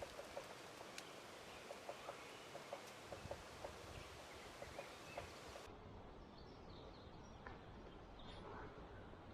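Faint wild turkey clucks: short, soft clucks in an irregular string, a couple a second, thinning out a little over halfway through.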